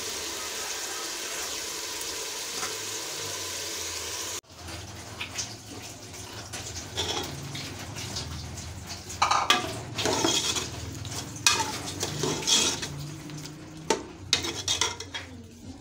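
Chicken frying with a steady sizzle in an aluminium pressure-cooker pot. About four seconds in it breaks off suddenly, and a metal ladle then stirs, scraping and clinking against the pot over a softer sizzle.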